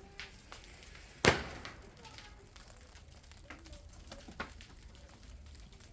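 A firework goes off with one sharp bang about a second in, trailing off briefly, followed by a few faint scattered pops.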